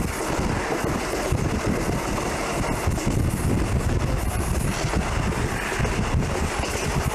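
Steady running noise of a train, with wind buffeting the microphone.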